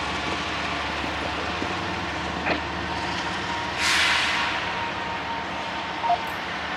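Steady rumble of a running vehicle, with a short burst of hiss about four seconds in and a brief sharp knock near six seconds.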